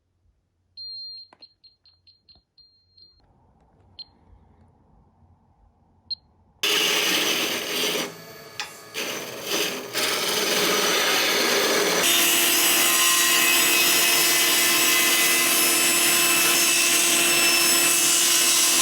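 A row of short, high-pitched beeps about a second in, then from about six and a half seconds a loud power tool working wood, dipping for a moment and then running steadily from about twelve seconds in.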